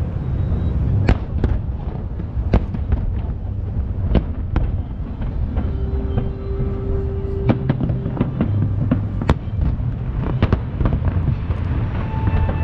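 Aerial fireworks bursting: many sharp bangs, irregularly spaced, over a continuous low rumble of shells and echoes.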